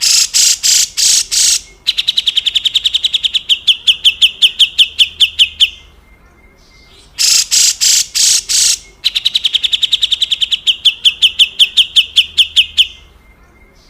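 Cucak jenggot bulbul giving its harsh 'besetan kasar' call: a handful of coarse rasps followed by a fast run of sharp ticks, about ten a second, in two bouts with a short pause between them.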